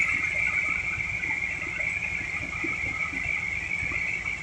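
Small-block Chevy V8 idling steadily, with a steady high whine over the low, rapid pulsing of the idle. The engine is running while its carburetor idle mixture screws are set for the highest manifold vacuum.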